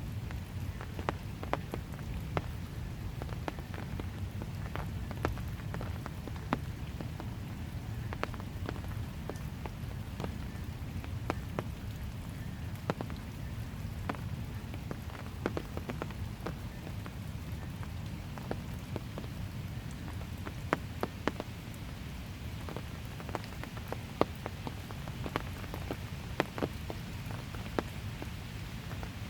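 Light, steady rain falling on a paved walkway, with a low constant hiss and many scattered sharp drips striking nearby surfaces at irregular moments.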